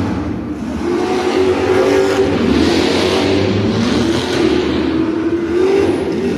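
Monster truck engine revving hard, its pitch climbing and dropping several times as the throttle is worked.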